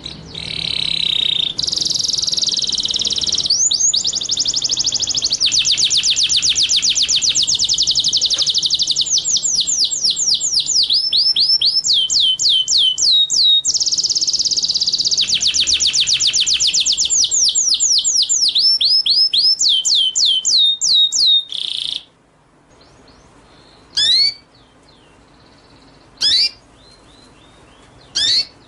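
A small songbird's rapid, high-pitched song: long runs of fast repeated sweeping chirps alternating with buzzy trills. About 22 s in it stops, and only three single rising chirps follow, about two seconds apart.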